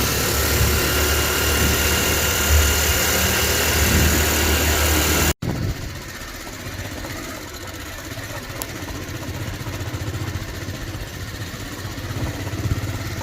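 Motorcycle engine running steadily under a constant hiss. About five seconds in the sound breaks off for an instant and then comes back quieter.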